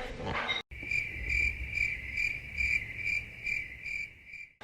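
A cricket chirping in a steady, even rhythm, about two and a half chirps a second. It starts and stops abruptly.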